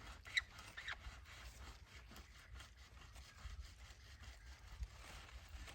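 Faint scraping and rubbing with scattered small clicks.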